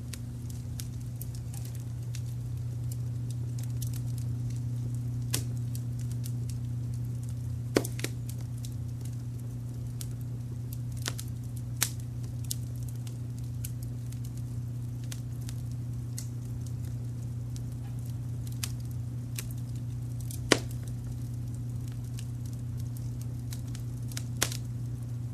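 Wood fire crackling, with scattered sharp pops, the loudest about eight, twelve and twenty seconds in. Beneath it runs a steady low rumble of added brown noise.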